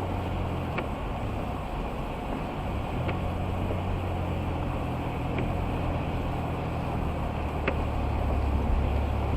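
Car cabin noise while driving on a wet highway: a steady low drone of engine and tyres, with the heater and defroster blowing. A faint tick comes about every two seconds.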